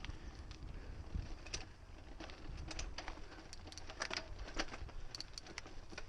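Mountain bike riding a rough dirt trail: a steady low rumble of wind and tyres, with a quick run of clicks and rattles from the bike over bumps through the middle of the stretch.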